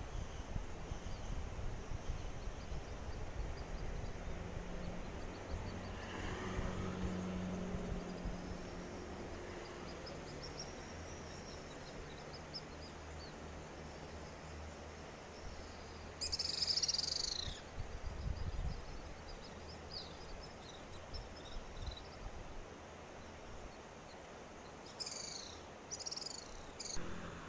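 Steady outdoor background noise with a bird chirping in quick falling notes, loudest about halfway through and again near the end.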